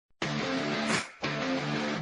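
Music: a guitar strumming chords in two short rhythmic bursts, the instrumental opening of a song.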